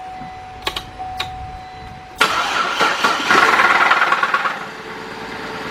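2005 Cadillac CTS 3.6 L V6 being started: a few sharp clicks and a faint steady tone, then about two seconds in the engine cranks and catches, runs loudly for a couple of seconds and settles to a steadier idle. The engine makes a noise on this start-up that the mechanic points out, just after new timing-chain tensioners and rod bearings were fitted.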